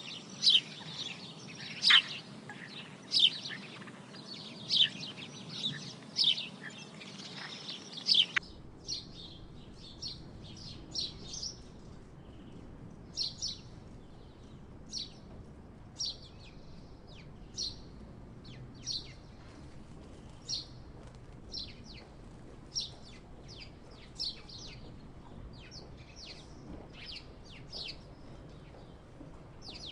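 House sparrows chirping: short, sharp chirps repeating about once a second. They are louder for the first eight seconds, then fainter after a cut, with a few quick runs of chirps.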